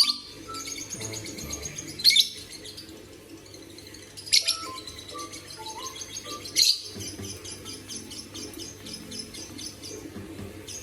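Pet bird chirping continuously, with a loud, shrill call about every two and a half seconds (four in all), under a faint melody.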